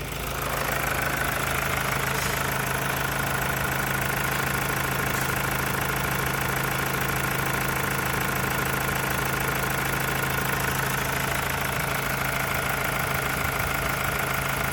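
2016 Mazda CX-5 engine running steadily at idle for an engine test, with a steady higher-pitched tone over the engine note; it gets a little louder about half a second in, then holds even.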